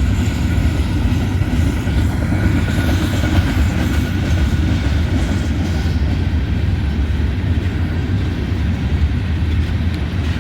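Freight train of empty covered grain hopper cars rolling past close by: a steady loud rumble with the rapid clatter of steel wheels on the rail joints.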